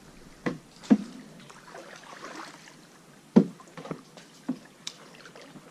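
Canoe being paddled: faint water swishing with about six short, sharp knocks, the loudest about halfway through, typical of a paddle bumping the canoe's side.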